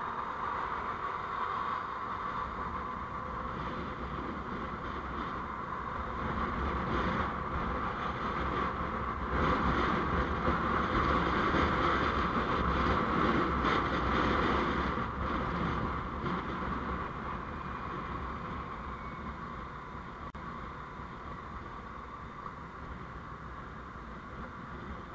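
Steady vehicle road noise while driving, with a low rumble; it grows louder for several seconds in the middle, then eases off.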